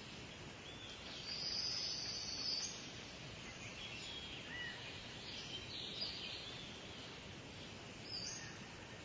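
Birds chirping with short high calls over a steady outdoor hiss; the loudest is a longer high call a little over a second in.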